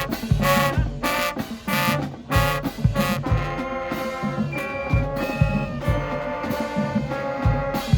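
High school marching band playing: short punched brass hits in rhythm with bass drum strikes, then from about three seconds in the horns hold long chords over occasional drum hits.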